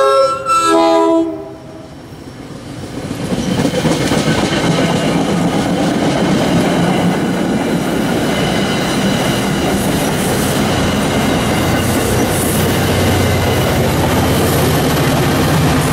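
MBTA commuter rail push-pull train passing at speed. Its horn sounds as the cab car comes up and stops about a second and a half in. Then comes steady wheel and rail noise as the coaches go by, and the diesel locomotive pushing at the rear passes near the end, its engine adding a low drone.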